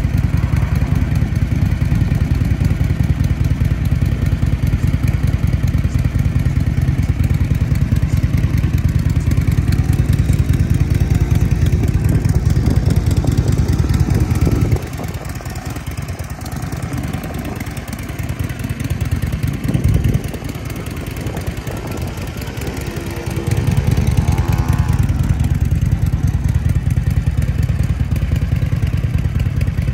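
Harley-Davidson V-twin motorcycle engine running with a steady, rapid low pulse. A little past halfway it drops much quieter for several seconds, then comes back up at full strength.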